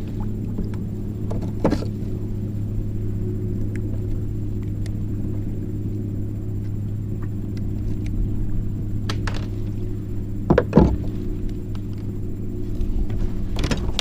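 A steady low mechanical hum, a motor droning at one unchanging pitch. Short knocks sound about two seconds in, and a louder double thunk comes at about ten and a half seconds.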